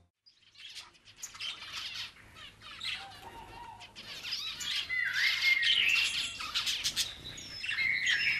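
A chorus of birds chirping and calling: many overlapping chirps and short whistled notes that start a moment after a brief silence and grow busier and louder about halfway through.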